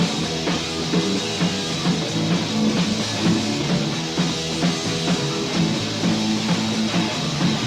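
Punk/ska band playing an instrumental passage with no vocals: electric guitar chords, bass and drum kit in a steady rhythm. It is a lo-fi 4-track demo recording.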